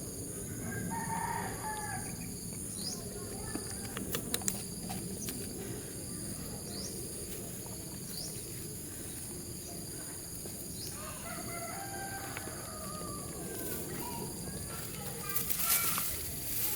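A rooster crowing, about a second in and again from roughly twelve to fourteen seconds, over a steady high-pitched insect drone with a few short bird chirps.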